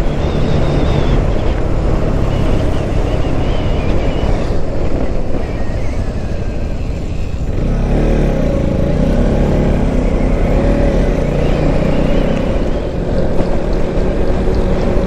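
Motorcycle under way on a highway: the engine runs with a steady rush of road and wind noise. The sound dips briefly a little past the middle.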